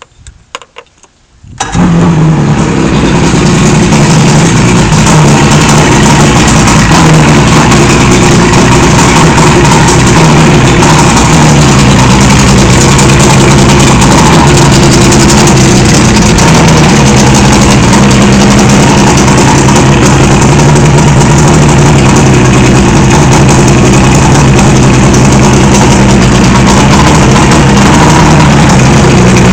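1976 Johnson 85 hp V4 two-stroke outboard motor catching about a second and a half in after a few faint clicks, then running loud and steady at idle. The owner, whose motor has no choke solenoid, is unsure whether this idle is rough.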